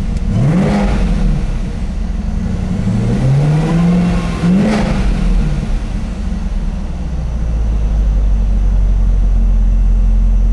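2017 Camaro ZL1's supercharged 6.2 L LT4 V8 free-revving in park. There is a quick blip about half a second in, then a slower climb about three seconds in followed at once by another blip. It then drops back to a steady idle for the last few seconds.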